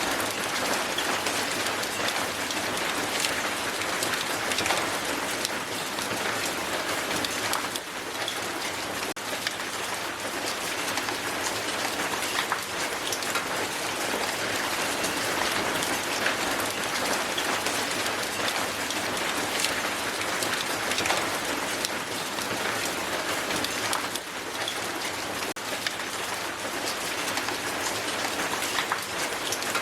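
Strong hail falling: a dense, steady patter of hailstones hitting the ground, with sharper single hits scattered through it.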